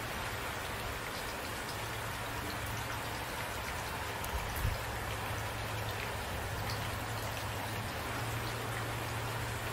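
Steady rain falling, an even hiss of drops on surfaces, with a low steady rumble underneath and two brief heavier thumps about four and a half seconds in.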